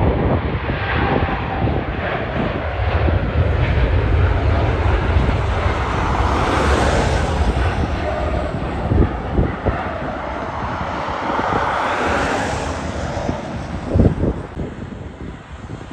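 Jet airliner engines, loud and steady, with a high whine that swells twice, around seven and twelve seconds in, before the noise eases off near the end. A few brief low knocks come through about nine and fourteen seconds in.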